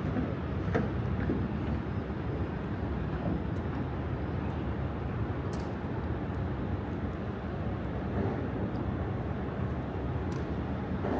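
Steady outdoor city background: a low, even rumble of distant traffic, with a few faint ticks.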